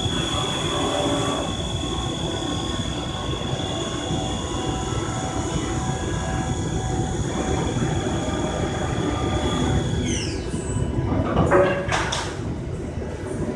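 Locatelli CNC machine tool running, with a steady multi-tone whine over a machining rumble. About ten seconds in the whine slides down in pitch and fades out, and a short, loud noisy burst follows near the end.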